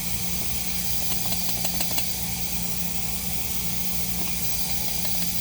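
Steady rush of air drawn through a Rochester Quadrajet four-barrel carburetor on a vacuum flow bench, over a steady hum from the bench.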